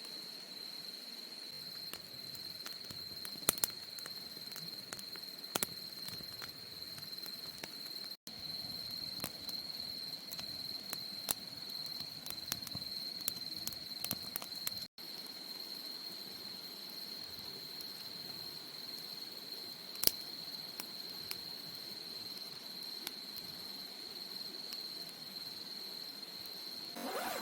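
Night insects, crickets by the sound, chirring in a steady high drone, with scattered sharp crackles of a wood fire now and then.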